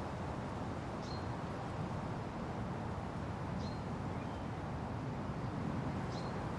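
Steady wind rushing through forest trees, with a small bird giving a short, high chirp three times, about every two and a half seconds.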